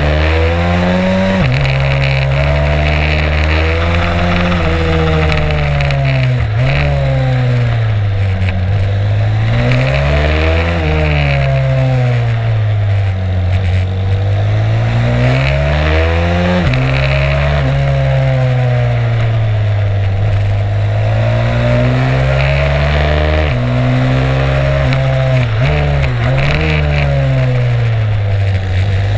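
Stomp 140 pit bike's single-cylinder four-stroke engine heard onboard, revving up and down repeatedly through acceleration and braking on track, with sudden drops in pitch at gear changes.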